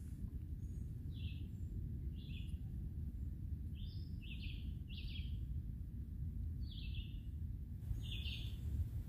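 A songbird giving short, separate chirps, about seven in nine seconds, some in quick pairs, over a steady low rumble.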